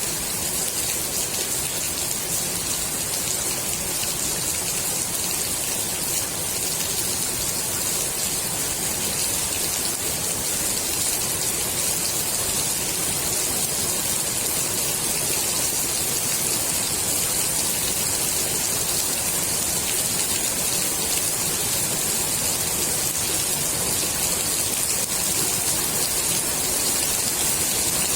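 Steady rain falling on the water of a swimming pool, a dense even hiss of drops on the surface.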